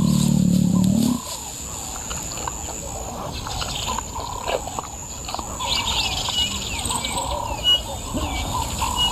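Wild birds calling and chirping over a steady outdoor hiss, with short repeated whistles in the second half. A low drone at the start cuts off suddenly about a second in.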